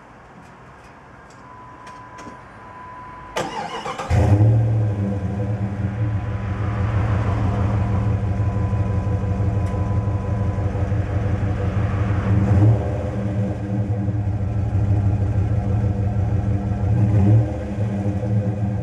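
Jeep Grand Cherokee ZJ 5.9's Magnum V8 on its stock exhaust: the starter cranks briefly and the engine catches about four seconds in, then idles steadily, with two short blips of the throttle, one about two-thirds through and one near the end. Before the start a faint steady tone sounds.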